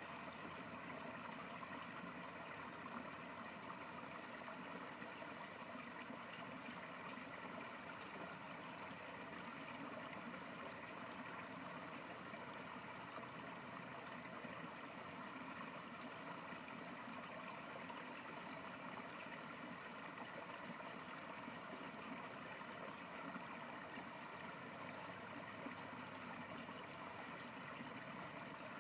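A small stream of water running steadily, a continuous rushing and gurgling.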